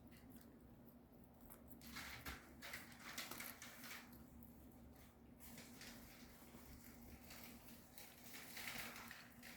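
Faint, irregular chewing and gnawing of a dog on a dog chew.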